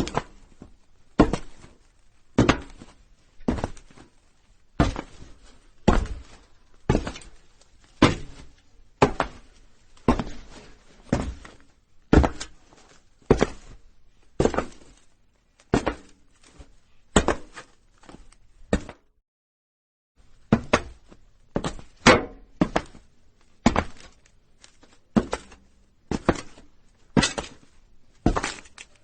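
Footsteps of a person walking on a roof: heavy, even thuds about one a second, each with a short knock and ring. The steps stop for about a second and a half around two-thirds through, then go on at the same pace.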